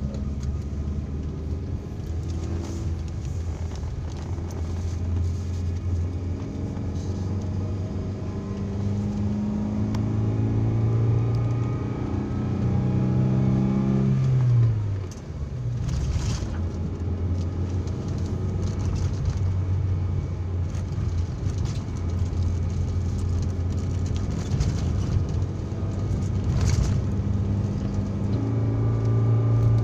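Daihatsu Terios engine and road noise heard from inside the cabin while driving. The engine note climbs steadily under acceleration, falls sharply about halfway through at a gear change, then runs steady and starts climbing again near the end.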